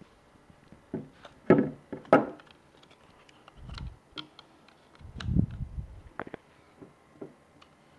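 Packaging being handled while an alternator is unwrapped: scattered crinkling and clicks, two loud rustling bursts about a second and a half and two seconds in, and two dull low thuds around four and five and a half seconds in as the heavy part is moved.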